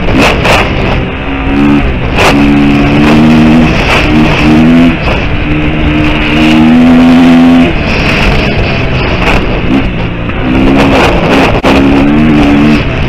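A KTM 350 EXC-F's single-cylinder four-stroke engine pulls hard under throttle. Its pitch climbs in several stretches, then drops away as the throttle closes or it shifts up.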